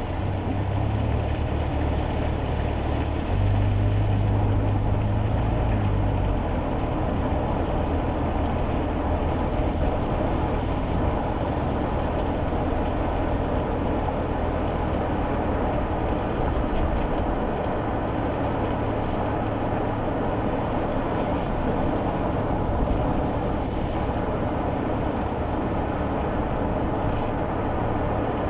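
Inside a kei car driving on wet roads: a steady low engine drone under a constant rush of tyre and road noise. The engine drone gets louder for a few seconds near the start.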